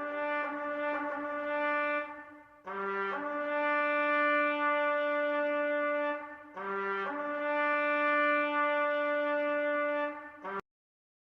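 Solo brass instrument playing a slow call: short lead-in notes rise into a long held note, three times over. It cuts off abruptly near the end.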